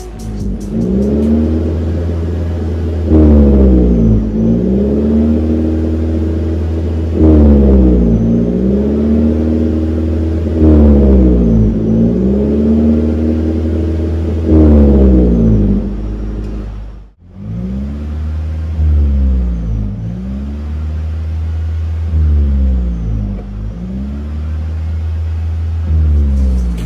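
Toyota Corolla Altis Hybrid's 2ZR-FXE 1.8-litre four-cylinder revving again and again through an aftermarket cat-back exhaust with a valved muffler. Each rev climbs for about a second and falls back to idle, roughly every four seconds. The sound breaks off briefly about two-thirds of the way through, and the revs after the break are a little quieter.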